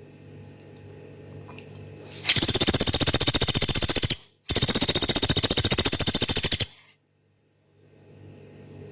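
Pelatuk beras, a small pygmy woodpecker, calling in two long, harsh rattles of fast even notes (the 'nembak panjang kasar' call), each about two seconds, the first starting a little over two seconds in. A faint low hum sits underneath between the calls.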